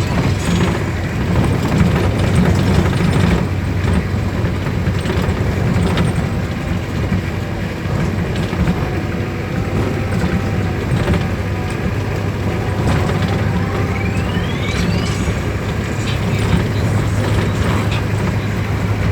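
A motor vehicle's engine runs steadily under continuous road noise, as heard from a vehicle on the move. About two-thirds of the way through, a whine rises quickly in pitch.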